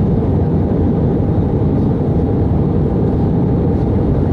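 Steady low roar of airflow and jet engines heard inside the cabin of an Airbus A319 airliner during its descent to land.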